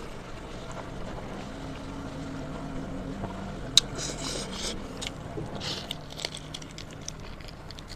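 A person eating and chewing, with short crackly mouth and food noises and one sharp click about four seconds in, over a steady low drone in the background.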